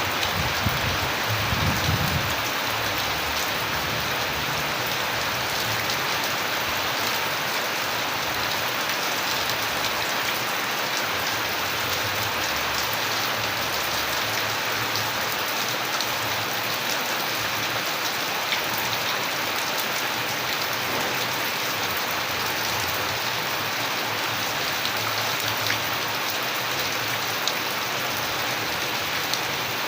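Steady rain falling on a surface, an even hiss with scattered individual drop ticks. A brief low rumble sounds in the first couple of seconds.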